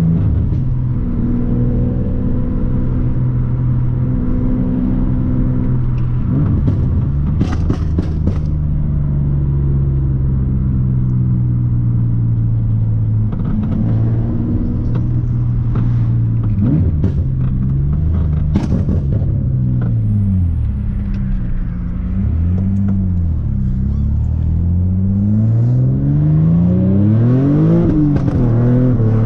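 A Nissan Maxima's 3.5-litre V6, swapped to a six-speed manual, heard from inside the cabin. It holds steady revs at first, then from about halfway through the pitch falls and rises several times through gear shifts, and it climbs again near the end under acceleration. A few short knocks come along the way.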